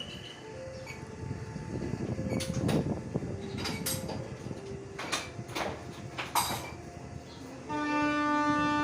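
Train at a station: a low rumble with several sharp, irregular clanks and knocks, then a steady pitched tone starts near the end.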